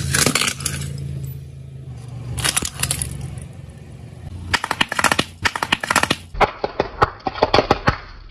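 A car's tyre rolling over and crushing a brittle object: a quick run of sharp cracks and crunches starting about four and a half seconds in, with the engine running low underneath.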